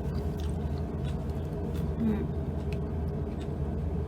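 Faint clicks and small mouth sounds of eating over a steady low hum.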